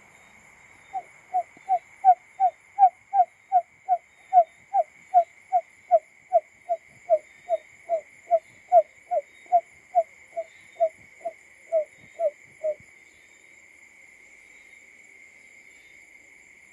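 Male barred buttonquail call, an imitation of the kind played as a lure: a long series of about thirty low hooting notes, roughly two and a half a second, each dipping slightly in pitch. It starts about a second in and stops about two-thirds of the way through.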